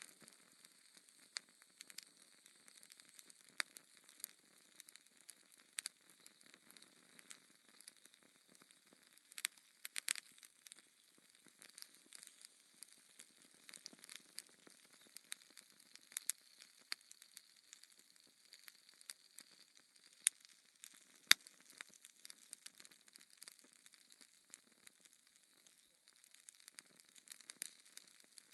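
Wood fire in a fireplace crackling, with irregular sharp pops over a faint hiss; two louder pops come about two-thirds of the way through.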